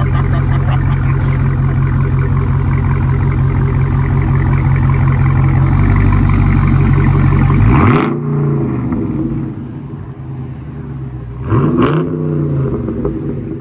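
Dodge Charger Scat Pack's 6.4 L 392 Hemi V8 through a dual exhaust with Carven R-Series mufflers and mid and rear deletes, held at steady high revs. About eight seconds in the revs drop back, and near the end there is one quick rev that rises and falls.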